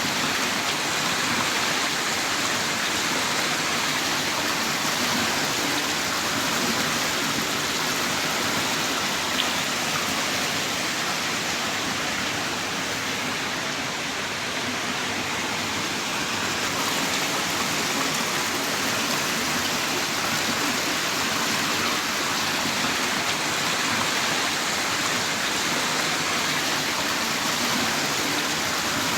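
Heavy rain downpour: a steady, dense hiss of rain with no breaks or changes.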